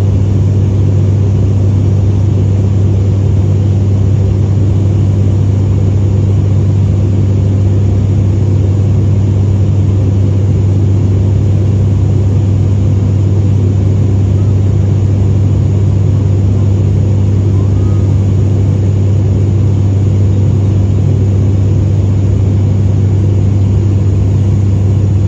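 Aircraft cabin noise heard from inside the plane in flight: a loud, steady engine drone with a strong low hum and a constant rushing noise.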